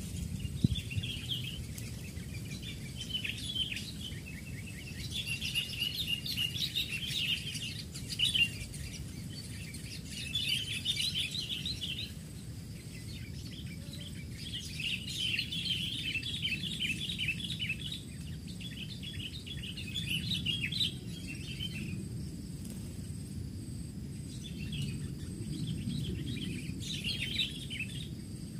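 Sooty-headed bulbuls calling in repeated bursts of rapid chattering notes, each burst lasting a second or two, over a steady low background rumble.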